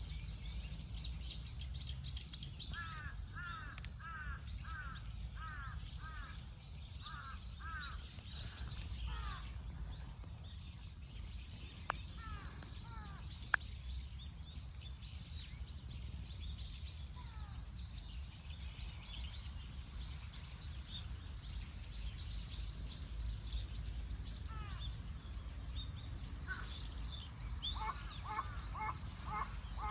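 Wild birds calling and chirping, with runs of short repeated calls, about two a second, a few seconds in and again near the end, over a steady low rumble. Two sharp clicks sound about halfway through.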